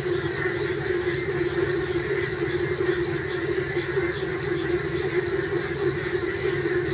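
A dense chorus of many frogs calling together in a wet rice paddy after rain. Their calls merge into a steady, fast-pulsing drone.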